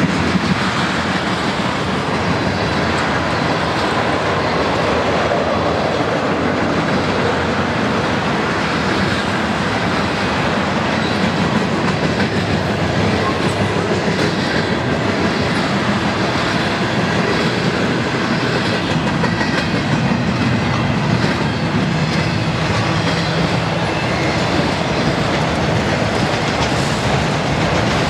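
Freight cars of a mixed manifest train rolling past: steel wheels running on the rails with a loud, steady noise.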